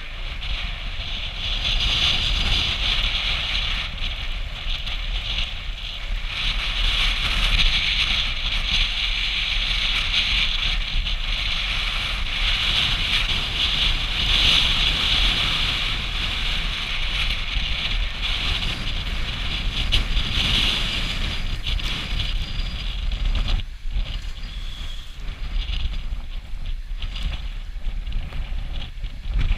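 Storm wind buffeting the microphone over waves washing and splashing at a river boat launch: a loud, steady rushing noise with a low rumble, easing a little near the end.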